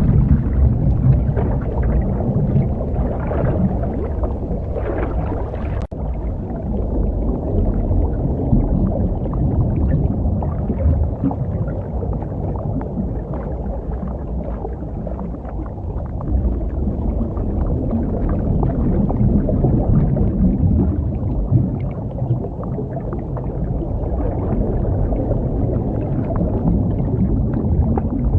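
Muffled underwater rumble and gurgle of a scuba diver's breathing and bubbles through the regulator. It drops out for an instant about six seconds in.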